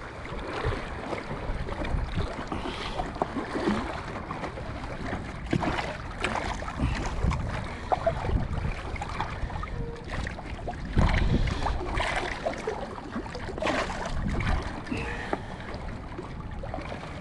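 Gusty wind buffeting the microphone in irregular surges, over lake water lapping, with a few small knocks.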